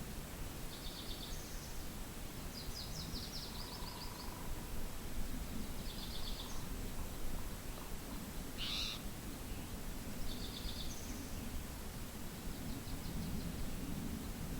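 Wind rushing steadily across the open canyon, with small birds calling over it. Short, rapid, high chattering trills come every few seconds, and one louder, sweeping call comes about nine seconds in.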